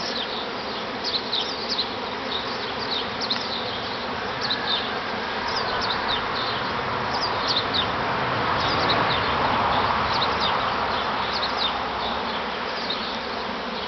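Dense buzzing hum of a honey bee swarm in flight around the microphone, thousands of bees flying in to settle in a new hive, swelling a little around the middle.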